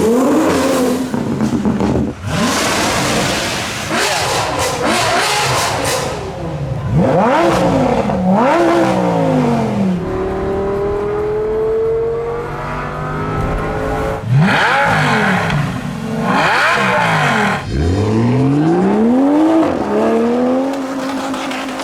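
Supercar engines revving hard and accelerating, the pitch sweeping sharply up and falling back again and again, with one longer steady climb in pitch midway.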